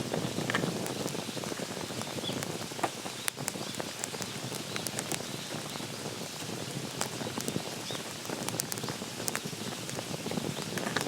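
Wood campfire burning steadily, crackling with frequent sharp pops.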